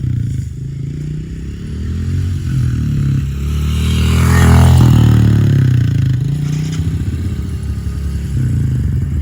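Honda motorbike engine running with the throttle opened, rising in revs to a peak about halfway through and then easing back, with scraping and clattering from fruit being forced against the spinning wheel.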